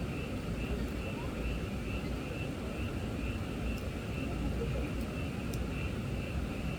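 Frogs calling in a chorus, pulsing about three times a second, over a steady low rumble, with a few faint pops from firewood crackling in the fire.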